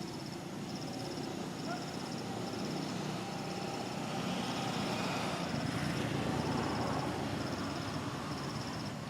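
An insect chirping in short buzzy trills, one about every second, over outdoor background noise that swells and then fades in the middle.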